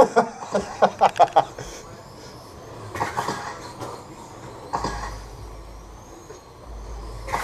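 RC rubber tire trucks racing on the track: steady running noise with a few short sharp sounds about a second in, and a faint high whine of a truck passing about five seconds in.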